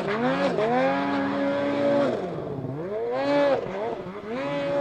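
Snowmobile engine revving: the pitch climbs, holds for a moment and drops back, about three times in a row.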